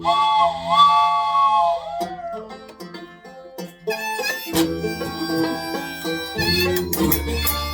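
A folk band starting a song: a harmonica chord held with slight bends for about two seconds, then banjo picking, with low notes joining about four and a half seconds in.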